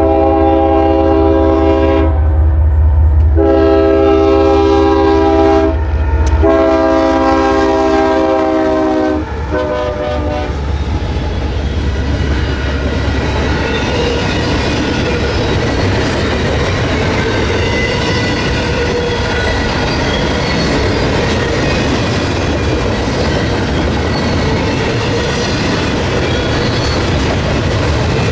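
Diesel freight locomotive's multi-note air horn sounded in three long blasts and a short one, followed by the train rolling past with a steady engine rumble and clickety-clack of wheels over rail joints.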